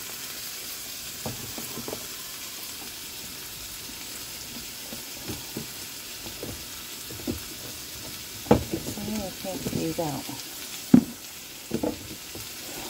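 Acorn squash, apples and green beans sizzling steadily in olive oil in a skillet as they heat back up. A utensil knocks against the pan a few times in the second half.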